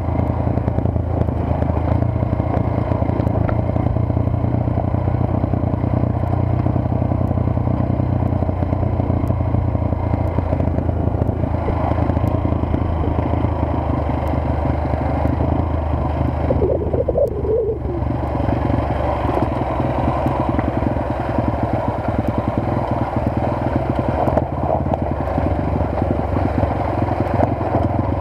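Motorcycle engine running steadily while riding, with a brief dip in the sound about two-thirds of the way through.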